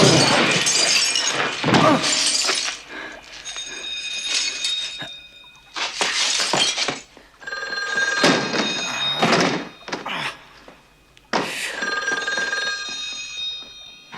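Film sound effects: a run of heavy crashes and impacts, several of them followed by a metallic ringing that hangs for a second or two.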